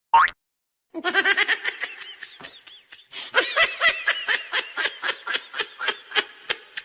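High-pitched laughter: a long unbroken run of quick short bursts, several a second, starting about a second in.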